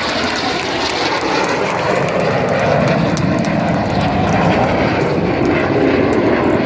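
Red Arrows' BAE Hawk T1 jets passing overhead, a loud jet rush that grows over the first few seconds and then holds steady.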